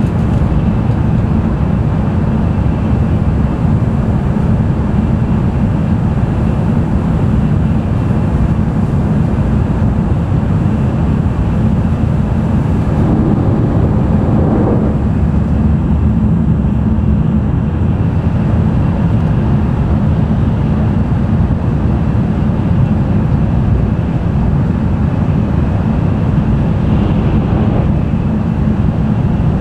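Cabin running noise of an N700-series Tokaido Shinkansen at speed: a loud, steady low rumble of wheels on rail with a brief swell about 13 seconds in.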